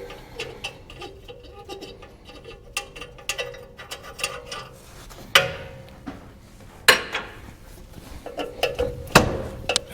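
Hand tools working on metal: runs of small clicks like a ratchet, with three sharper metal knocks, about halfway, a second and a half later, and near the end.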